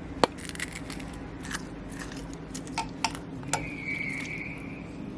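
Sharp clicks and knocks of a cooking pot and stovetop being handled, then a steady hiss starting about three and a half seconds in.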